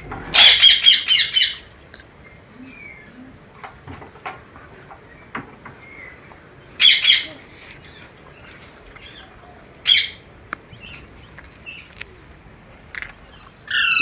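Ringneck parrot giving harsh, high screeching calls in short bursts: a quick run of about six calls at the start, then single bursts about seven and ten seconds in and again at the very end.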